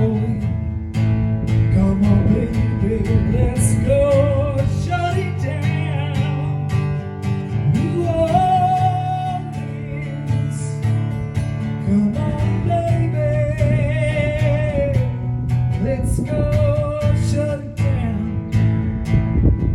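Acoustic guitar strumming chords, with a wavering melody line carried over it.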